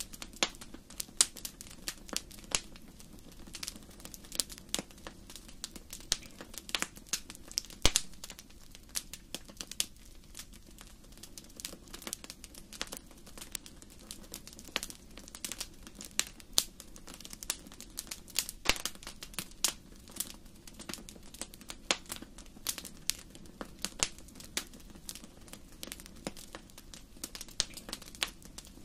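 Wood fire burning in a fireplace: irregular sharp crackles and pops, some loud, over a low steady hiss of the flames.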